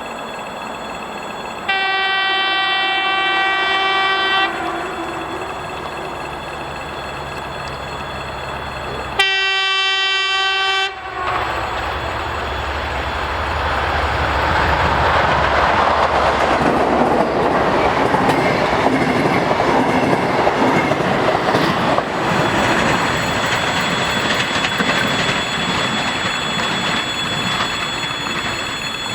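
Two long horn blasts from an approaching 'Lastochka' train, a TEP70BS diesel locomotive with an ES2GP electric train set: the first lasts about three seconds, the second about two. The train then passes, with loud wheel-and-rail rushing and clickety-clack that build up and then slowly fade as it recedes.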